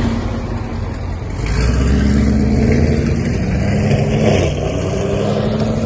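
A performance car's engine revving, its note getting louder about a second and a half in and held high for a few seconds before easing off near the end.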